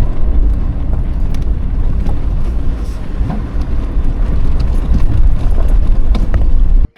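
Land Rover Defender driving on an unsealed outback track: a steady heavy rumble of engine and tyres, with scattered ticks and knocks. It cuts off suddenly just before the end.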